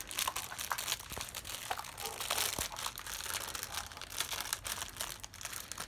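Packing material crinkling and rustling as a fragile gift is unwrapped from its box, with many small crackles and clicks.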